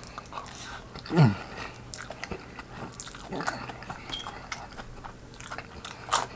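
Close-miked chewing of chicken tetrazzini casserole: a run of small mouth clicks and smacks, with a short vocal sound falling in pitch about a second in.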